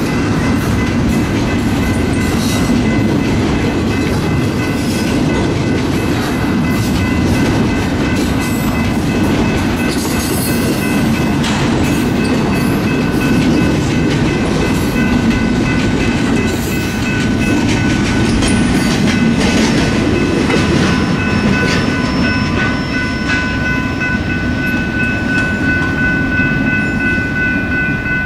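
Double-stack intermodal freight train passing at close range: a steady noise of the wheels clattering over rail joints and the cars rolling by. Steady high ringing tones run over it, strongest near the end.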